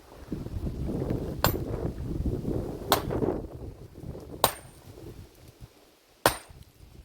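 Four sharp, hard strikes about a second and a half apart, each with a brief high ring, like a hammer striking stone. A low rough noise runs between the strikes.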